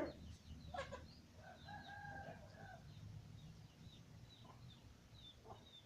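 A rooster crowing faintly once, a held call of about a second and a half starting about a second and a half in, with small birds chirping high and thin throughout.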